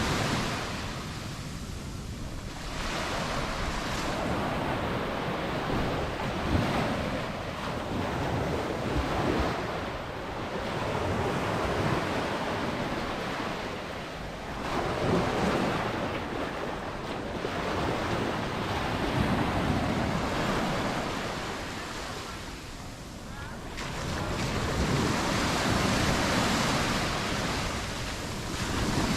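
Mediterranean surf breaking on a sandy beach, the wash swelling and ebbing every few seconds, with some wind on the microphone.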